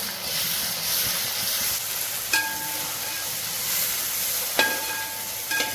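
Fried onions and ginger-garlic paste sizzling in hot oil in a heavy aluminium pot, stirred with a perforated metal spatula, with a few brief ringing scrapes of the spatula against the pan.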